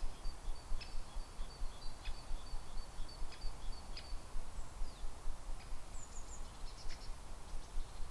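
Small songbirds giving short, thin, high-pitched calls again and again, over a steady low rumble of wind.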